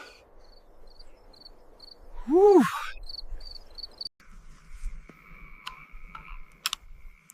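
Crickets chirping in short, evenly repeated high pulses, and a loud, breathy "whew" of relief about two and a half seconds in. After about four seconds a steady high insect drone takes over, with two sharp clicks near the end.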